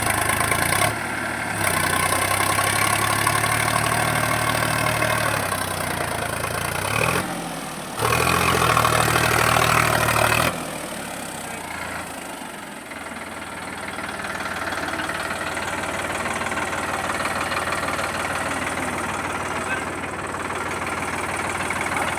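Sonalika 745 DI tractor's three-cylinder diesel engine running hard while hauling a gravel-loaded trolley. It eases off briefly about seven seconds in, runs loudest again for a couple of seconds, then drops to a quieter, steady running from about ten and a half seconds.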